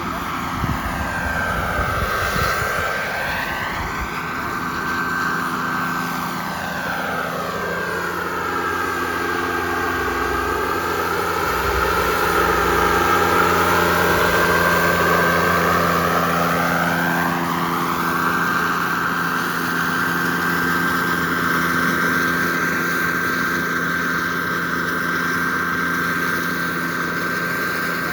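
Turbine-engined RC model jet flying passes, its jet roar rising and falling as it goes by, briefly about two seconds in and again in a longer, louder pass through the middle. A steady high whine runs underneath.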